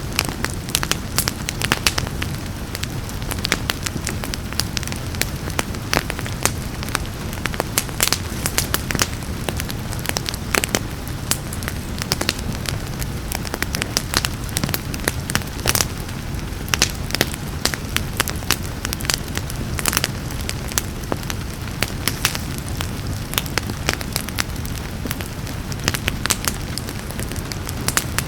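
Wood fire crackling, with many sharp pops and snaps in quick irregular succession, over a steady hiss of rain.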